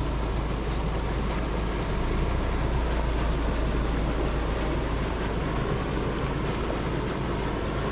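Steady rushing of water pouring and swirling out of a culvert mouth, a constant noise with a deep low rumble underneath.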